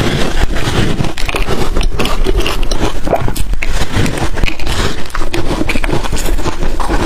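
Ice being bitten and chewed close to the microphone: a dense, unbroken run of crunches and crackles.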